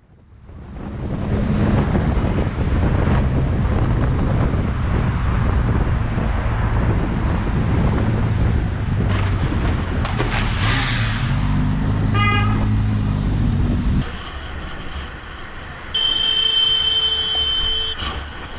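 Motorcycle engine and road noise from a riding vehicle, loud and steady, cutting off suddenly about two-thirds of the way through. Near the end a vehicle horn sounds for about two seconds.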